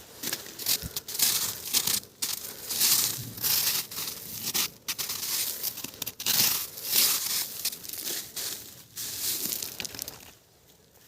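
Hail pelting down in a storm: a dense, irregular crackle that swells and eases, then dies away near the end.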